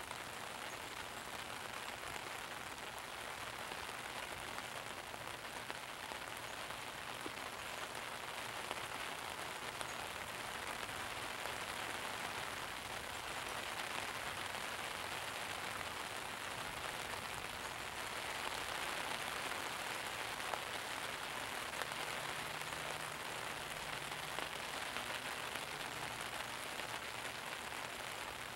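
Steady rain falling, a constant hiss that grows slightly louder about two-thirds of the way through.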